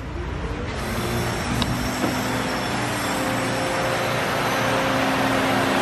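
Electric radiator cooling fan switched on and spinning up: a rising motor tone and a rush of air that grows steadily louder as it comes up to speed, running very fast.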